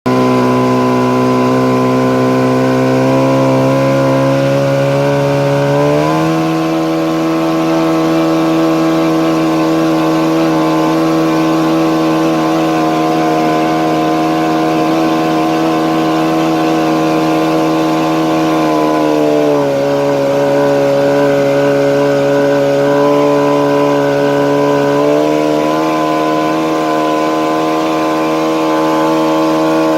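Yamaha outboard jet motor on a jon boat running under way, loud and steady. Its pitch steps up about six seconds in, falls back around twenty seconds, and rises again near twenty-five as the throttle changes.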